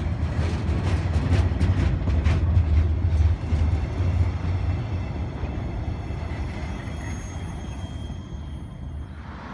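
A train passing, with a heavy low rumble that swells over the first few seconds and then fades away. A run of sharp clicks comes in the first two to three seconds, and faint high ringing tones follow as it recedes.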